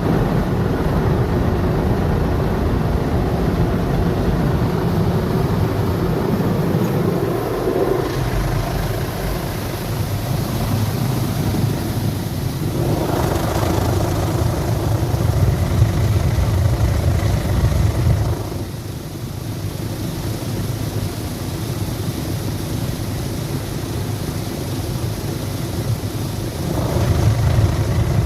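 Automatic car wash machinery working over the car, heard from inside the cabin: a steady low mechanical rumble with the wash of spray and brushes, changing in character several times as the cycle moves on.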